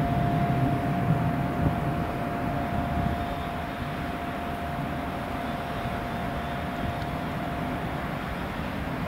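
Distant rumble of a VL10U two-section DC electric locomotive and its freight train approaching along the track, with a steady high whine.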